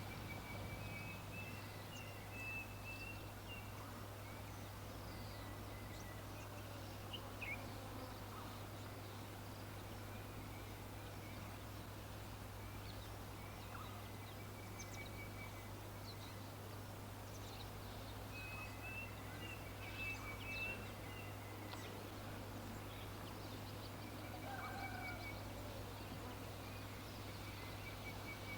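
Birds chirping in short repeated trills, twice in longer runs, with scattered single calls over a steady low hum.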